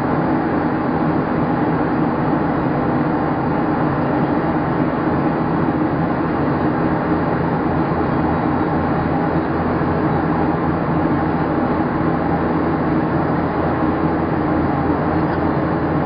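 Steady cabin noise of a Boeing 737-700 in its climb after takeoff: the drone of its CFM56 engines and the rush of air, with a few steady low hums and no change in level.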